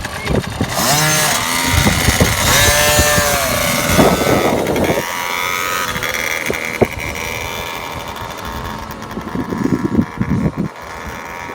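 KTM 50 motocross bike's small two-stroke engine revving up and down in the first few seconds, then running steadier and quieter in the second half.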